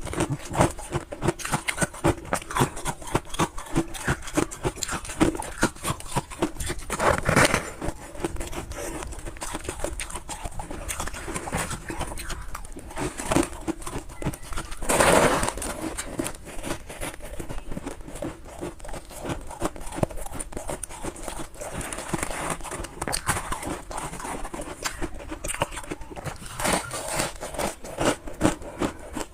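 Close-up crunching and chewing of freezer frost, a steady run of crisp crunches with louder bites about 7 and 15 seconds in.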